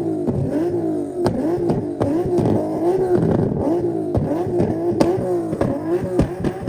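Car engine held on a two-step launch-control rev limiter, the pitch bouncing up and dropping back a little under twice a second, with sharp pops and cracks from the exhaust.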